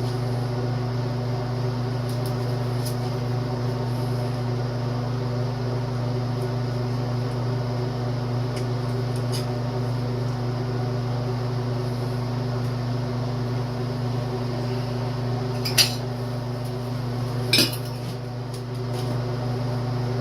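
Light clinks of small metal carburetor parts being handled and fitted, with two sharper clinks near the end, over a steady machine hum.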